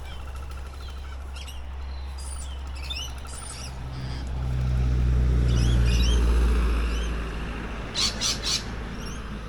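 Wild birds chirping and calling in short, high, gliding notes. A low rumble swells and fades around the middle, and a few sharp clicks come near the end.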